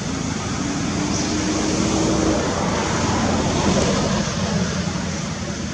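Steady road traffic noise, with a vehicle engine passing by: it grows louder toward the middle and then fades.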